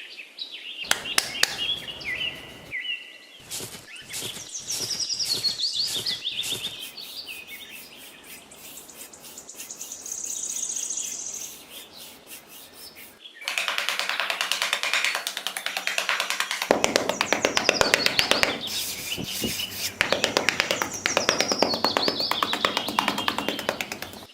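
Small birds chirping and calling, turning into a dense, busy chorus of rapid chirps about halfway through.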